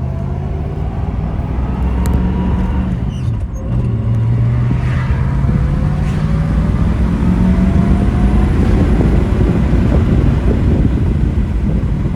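1966 Ford Mustang's 289 V8 pulling under acceleration, its note rising in pitch. About three and a half seconds in it drops as the three-speed manual is shifted up, then climbs again and levels off.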